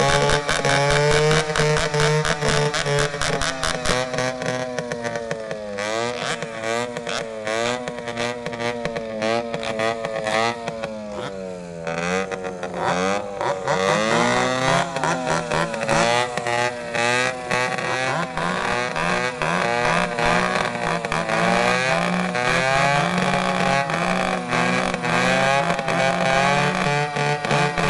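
Home-built noise machine driven by a chainsaw engine, running at high revs. In the middle its revs sag and surge several times, then it holds high again.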